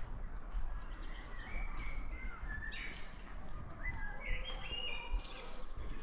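Small birds chirping, a run of short high calls, over a steady low rumble.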